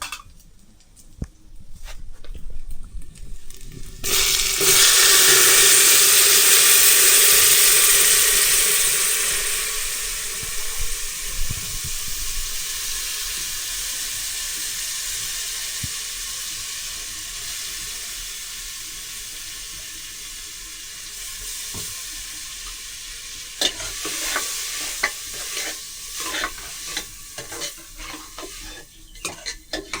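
Food goes into hot oil in a pan about four seconds in, setting off a loud sizzle that slowly dies down over the next twenty seconds. Before it, and again near the end, a utensil clicks and scrapes in the pan as the food is stirred.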